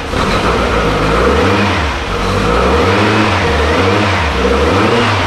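A newly built 2234cc air-cooled VW flat-four engine on its first run, loud, its revs rising and falling about once a second as it is held above idle. Its carburetors are still untuned, so it will not idle on its own.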